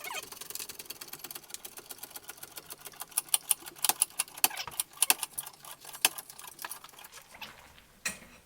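Hand tools working on metal: fast, irregular clicking and clinking, loudest between about three and six seconds in and thinning out near the end.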